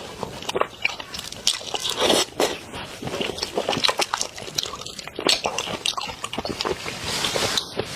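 Close-miked eating of a whole shrimp: irregular biting and crunching of the shell, with wet chewing and mouth clicks.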